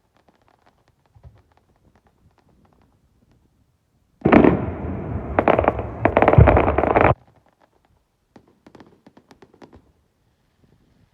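Fireworks going off: faint scattered crackles, then about four seconds in a loud, dense run of bangs and crackling lasting about three seconds that stops abruptly, followed by a few faint scattered pops.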